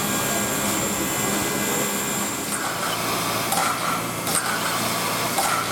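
Steady hiss from the Er-class steam locomotive ER799-18, with a few brief higher-pitched sounds over it in the second half.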